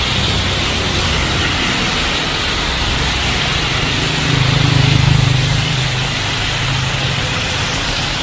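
Heavy rain pouring steadily on a street, with a vehicle's engine hum rising and then fading about four to six seconds in as it passes.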